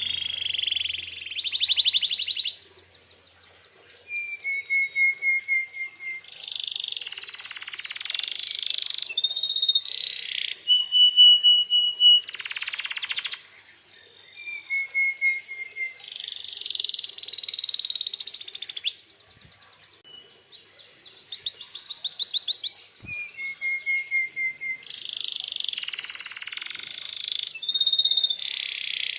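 Domestic canary singing a long, energetic song of fast trills, rolls and clear whistled notes, with brief pauses between song bouts. The same run of phrases comes back about every ten seconds, as in a looped recording.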